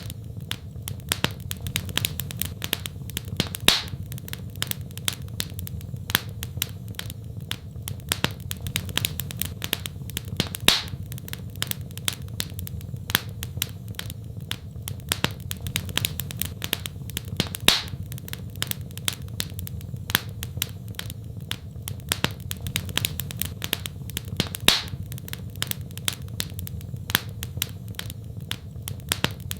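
Wood fire crackling in a fireplace: dense small snaps and pops over a steady low rumble, with a louder pop about every seven seconds.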